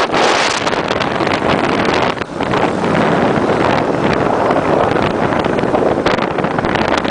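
Loud wind buffeting the microphone on a moving motorbike, a steady rushing noise with a short dip about two seconds in.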